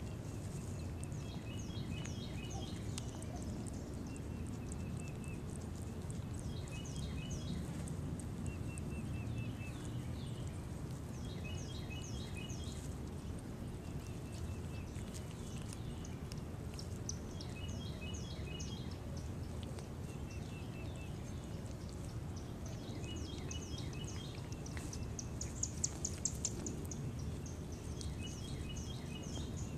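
A songbird singing short phrases of quick high chirping notes, repeated about every two seconds, over a steady low outdoor rumble. A louder, higher run of notes comes near the end.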